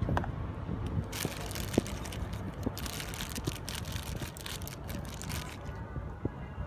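Plastic packaging crinkling and rustling in the hands as the pump's accessories are unpacked, a dense run of sharp crackles from about a second in until near the end, with a few separate clicks, over a steady low rumble.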